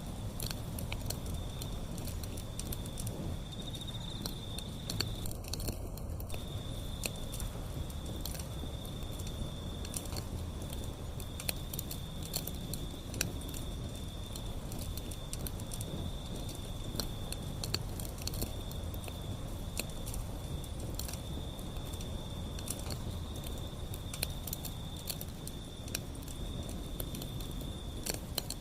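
Wood fire burning, crackling with frequent sharp pops over a low rumble. An insect trills steadily at a high pitch throughout, pausing briefly about five seconds in.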